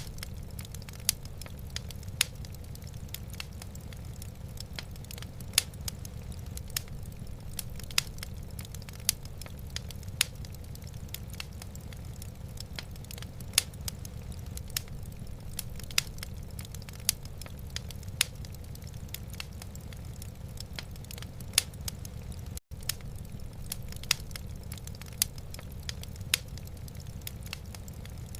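Wood fire crackling in a fireplace: sharp pops and snaps scattered a second or so apart over a low, steady rumble. A momentary dropout occurs about two-thirds of the way through.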